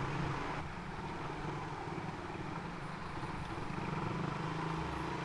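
Suzuki Raider 150 single-cylinder motorcycle engine running with a steady low hum while moving slowly in traffic, with the noise of surrounding vehicles around it.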